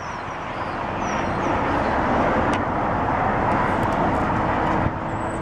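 Vehicle and road noise heard from inside a car: an even rushing sound that builds over the first two seconds and eases slightly near the end, with a low steady hum entering about four seconds in.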